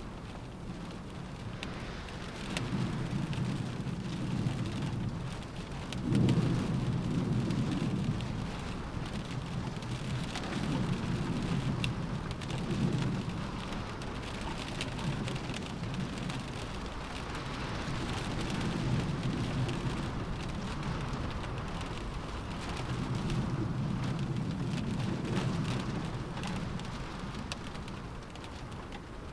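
Steady rain pattering on a window glass, with storm wind gusting in low rumbling swells several times; the strongest swell comes on suddenly about six seconds in.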